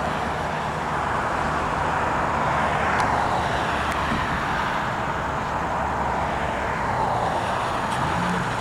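Steady wash of outdoor engine noise, a mix of road traffic and jet noise, with a low hum beneath it and no sudden events.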